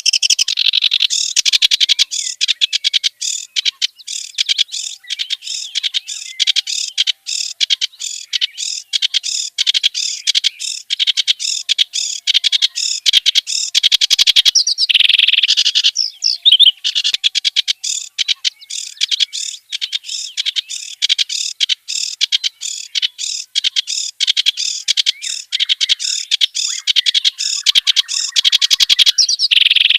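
Kerak basi, a reed warbler, singing a loud, nonstop song of rapid, varied chattering and whistled notes.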